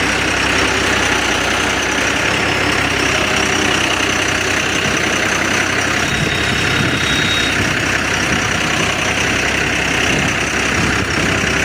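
A motor running steadily without a break.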